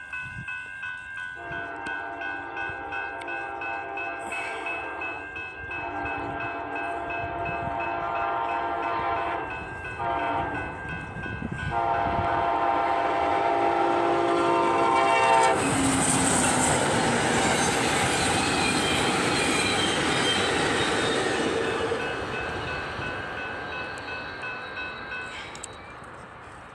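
Amtrak passenger train's horn sounding the grade-crossing signal, long, long, short, long, as it approaches. The train then passes close by with a loud rush of wheel and rail noise that fades as it moves away. A crossing warning bell rings steadily underneath.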